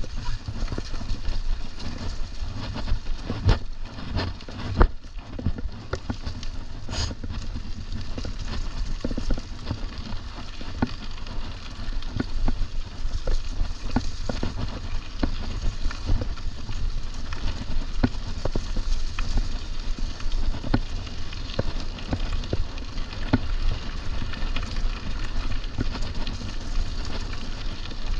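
Mountain bike being ridden over a trail: a steady low rumble of wind on the microphone, with many small clicks and knocks from the tyres on the ground and the bike rattling.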